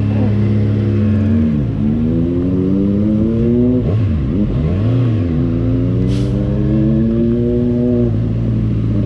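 Kawasaki Z1000R's inline-four engine on its stock exhaust, accelerating under way. The pitch climbs steadily and drops briefly a couple of times as it shifts gear.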